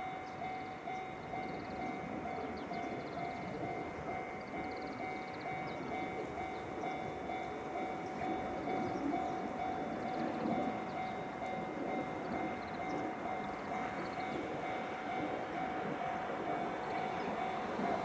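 Freight train approaching in the distance, its rumble slowly growing louder, over a steady high-pitched hum.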